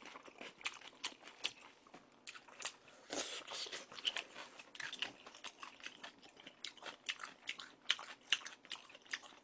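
Close-miked chewing of crispy battered fried pork (tangsuyuk), an irregular run of short, sharp crunches with wet mouth sounds between them.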